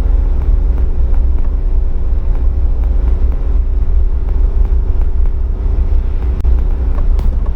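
Suzuki Jimny driving at a steady speed: a low, even engine drone with road and tyre rumble.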